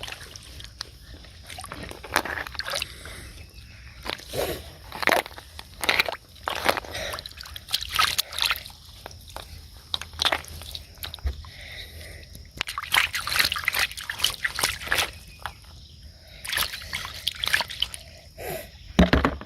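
Shallow water sloshing and splashing in many short, irregular splashes, as it is stirred and disturbed.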